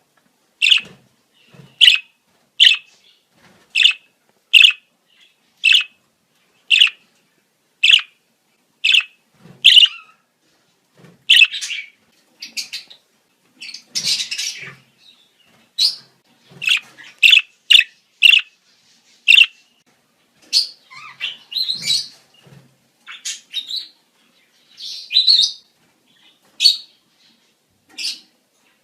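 Budgerigars calling in breeding season: a run of sharp, evenly spaced chirps about one a second, then more varied chirping and chatter from about ten seconds in.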